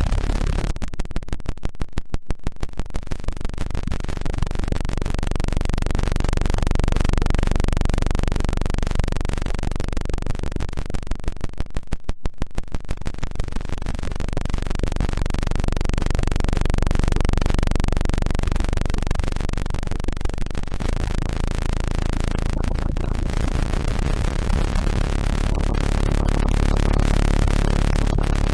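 Electronically generated tones: steady low hums layered under a dense hiss-like wash, with a fast, even pulsing that swells in about a second in and again around the middle.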